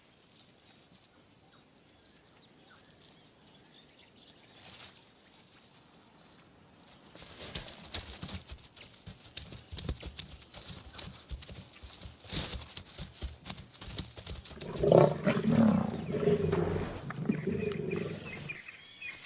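Lionesses growling loudly for about three seconds near the end while struggling with prey, a young giraffe. Before that come scuffling thuds and crackles of the struggle, and at the start faint, evenly spaced high ticks.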